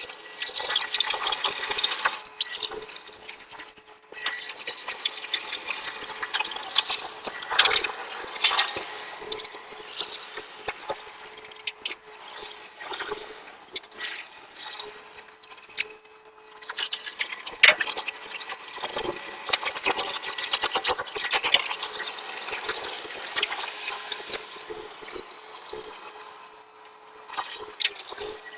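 Nylon cargo straps and their metal hooks being handled while tying down a load: webbing rustling and sliding, with repeated metal clicks and scrapes, over a faint steady hum.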